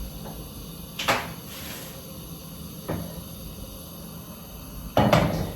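Kitchen handling noises: a sharp click about a second in, a softer knock near three seconds, and a louder clunk near the end, over a steady low hum.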